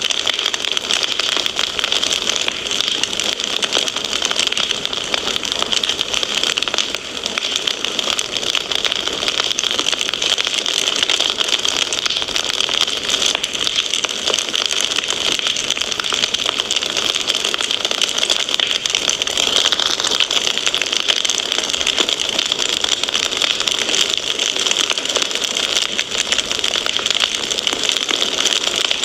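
Fireplace fire crackling: a dense, steady stream of fine crackles over a hiss.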